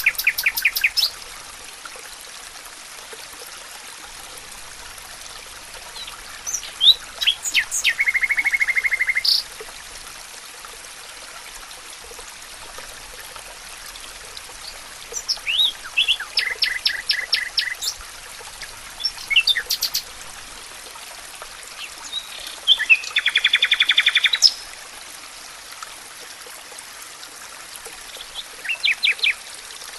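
A songbird singing a repeated song about every six to seven seconds: a few quick sharp notes, then a rapid even trill of about a dozen notes. Beneath it runs a steady rush of flowing water.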